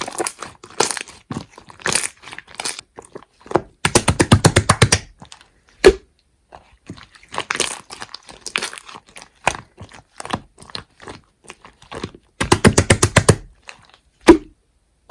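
Slime being squeezed and pressed by hand, giving a string of small clicks and pops. There are two runs of rapid popping, one about four seconds in and another near the end, and a couple of single sharp pops in between.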